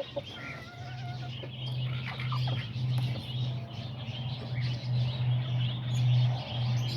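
Small birds chirping and peeping in short high calls, with a few brief held whistling notes, over a steady low hum.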